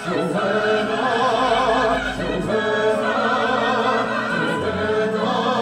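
Music with several voices singing in a classical, choir-like style, the sung notes wavering with wide vibrato.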